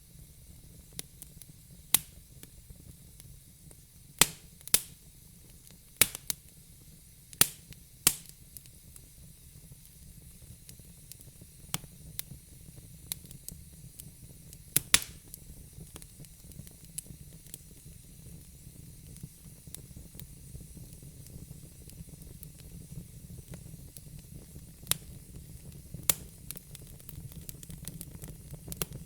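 Wood fire in a fire pit crackling, with sharp irregular pops, some loud and some faint, over a steady low rumble.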